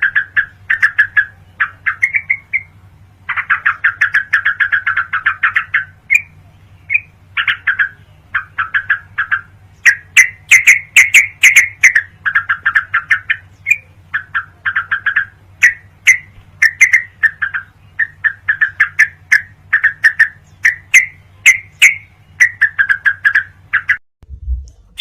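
Yellow-vented bulbul (trucukan) song: loud, rapid chattering phrases repeated in quick series, with a steady low hum beneath. The song and hum stop about a second before the end.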